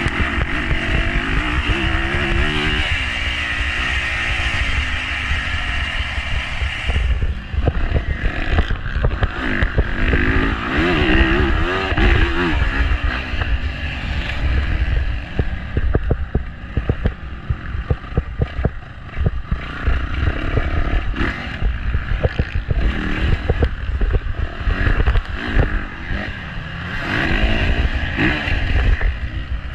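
Motocross dirt bike engine revving up and falling back again and again as it rides, with rough hiss and knocking over it; the sound changes abruptly about seven seconds in.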